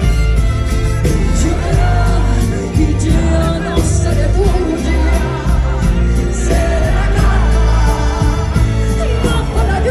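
Live band music played loud through a PA, with a heavy bass and a wavering sung or melodic line over it.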